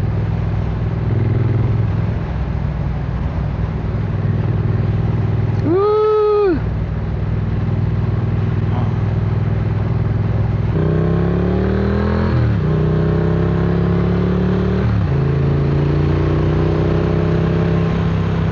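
Triumph Speed Twin 900's 900 cc parallel-twin engine running steadily while being ridden, then pulling harder: about eleven seconds in it climbs in pitch, drops at an upshift, and drops again at a second upshift a couple of seconds later before climbing again. A single short tone that rises and falls sounds about six seconds in.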